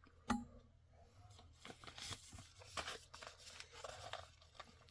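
A single sharp knock, then faint intermittent rustling and crinkling of packaging being handled and pulled open.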